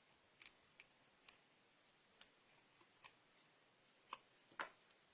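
Small craft scissors snipping paper: faint, irregular clicks, a dozen or so spread unevenly, the two loudest near the end.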